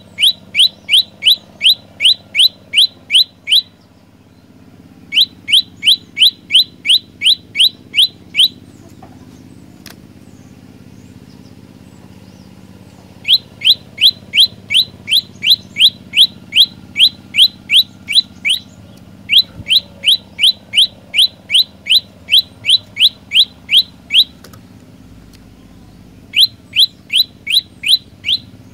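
Prenjak lumut songbird singing its rapid repeated call: runs of loud, short, rising chirps at about four a second, each run lasting several seconds, with pauses of one to a few seconds between them.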